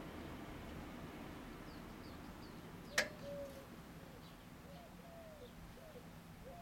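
Birds calling with short chirps that come more often in the second half, over a faint steady low hum. One sharp click about three seconds in is the loudest sound.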